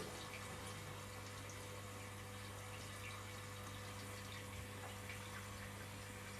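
Washing machine running: a steady low hum with faint water sounds and scattered light ticks.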